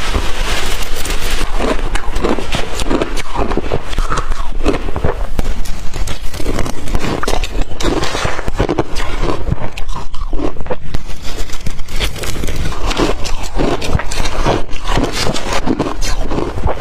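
Blender-crushed ice being bitten into and crunched close to the microphone: a dense, continuous run of crackling bites, easing a little about ten seconds in.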